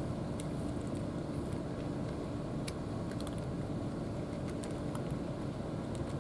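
A steady low motor hum with a held tone, and faint scattered clicks over it.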